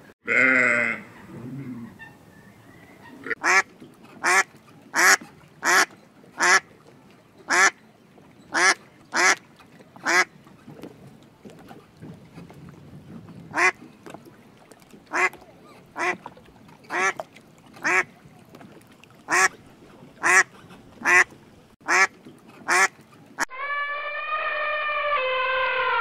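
Mallard ducks quacking: about twenty short quacks, roughly one a second, with a pause midway. A sheep's bleat fades out at the start, and an elephant trumpets loudly near the end.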